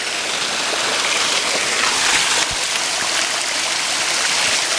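Waterfall at close range: a steady, loud rush of falling and splashing water.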